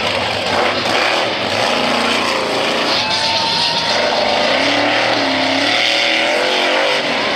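Monster truck engine running hard at full volume, its pitch rising and falling repeatedly as it revs up and down.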